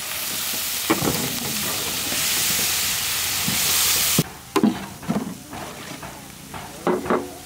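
Chopped onion and green chilies frying in oil in a large flat steel tray, sizzling as cumin paste is poured in and stirred with a long-handled metal spatula. The sizzle drops away suddenly about four seconds in, leaving quieter scrapes and clinks of the spatula on the steel.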